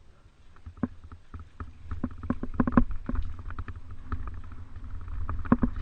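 Mountain bike rattling over rough ground: irregular clicks and knocks, denser and louder from about two seconds in, over a steady low rumble.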